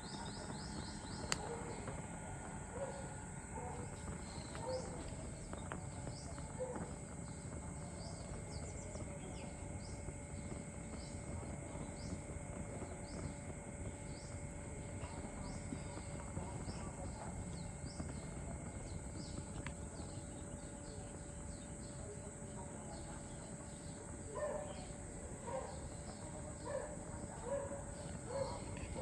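Outdoor ambience with many short, high bird chirps repeating throughout, and a run of lower calls in the last few seconds.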